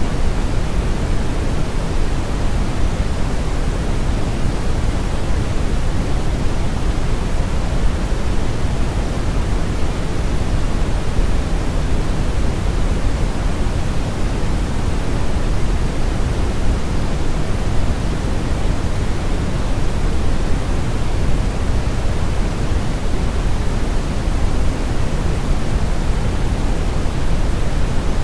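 Brown noise: a steady, unchanging rushing hiss, heavy in the low end and dark in the highs, like a strong river current or wind.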